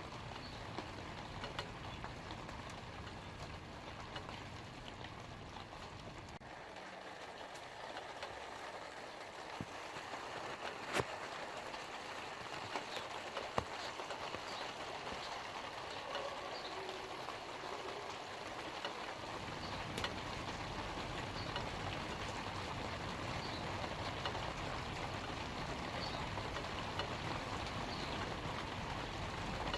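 Light rain falling on leaves: a steady patter with a few sharper drop hits now and then.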